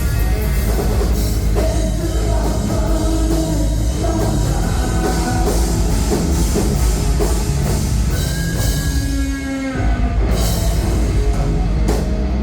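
Live rock band playing loudly: distorted guitars, bass and drum kit with singing, easing briefly about nine seconds in before a held chord near the end.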